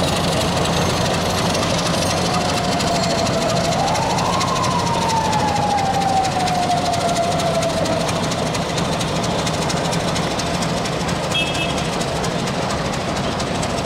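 Diesel-hauled passenger train running, with a steady engine sound and a whine that rises about four seconds in and then slowly sinks.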